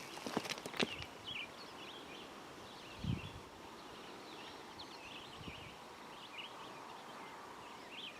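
Birds chirping on and off in the background throughout. A few footsteps sound in the first second, and there is a low thump about three seconds in.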